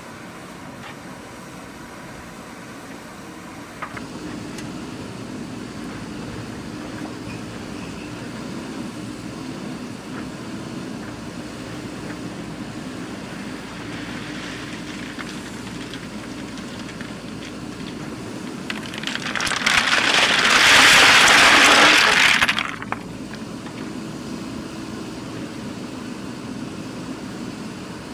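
JCB 3DX backhoe loader's diesel engine running steadily, rising a little after a short knock about four seconds in. Later a loud rushing noise swells up for about three seconds and then cuts off suddenly.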